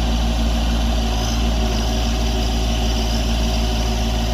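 Branson 2500 compact tractor's diesel engine running steadily at raised digging revs while working the BH100 backhoe.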